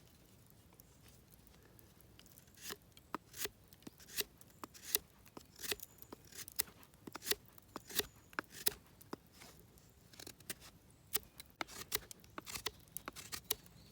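Knife whittling a split stick of cherry wood into a skewer: a quick, irregular run of short, sharp shaving strokes that starts a couple of seconds in.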